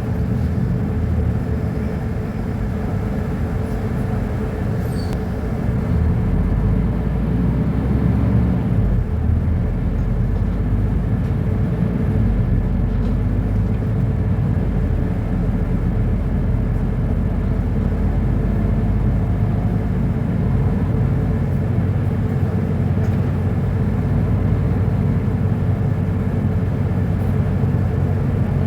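Mercedes-Benz O-500UA articulated bus's six-cylinder diesel engine running with a steady low drone, growing a little louder about six seconds in.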